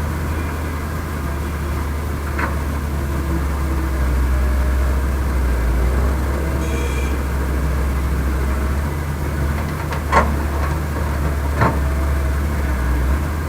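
Heavy diesel engine of earth-moving machinery running steadily with a deep drone. Three short sharp clanks come through it: one a couple of seconds in, two more a second and a half apart near the end.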